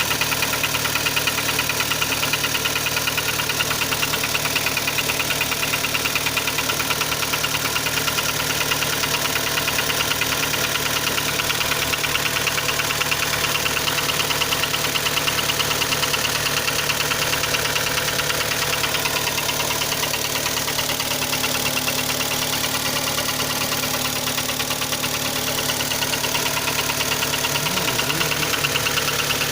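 Kia Sportage III engine idling steadily with a rapid, regular knock running in time with the engine. The knock is the unexplained fault the owner is asking about.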